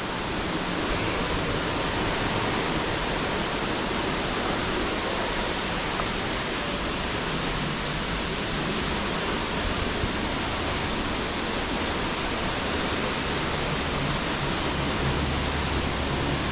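Dry Falls, a waterfall on the Cullasaja River, giving a steady rush of falling water.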